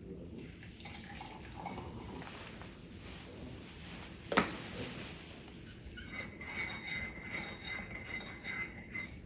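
Glass and dishes clinking: a few separate light knocks, one sharp knock about four seconds in, then, for the last three seconds, a rapid run of ringing clinks.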